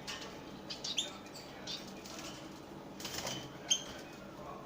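Small pet finches giving a few short, high chirps, with wings fluttering.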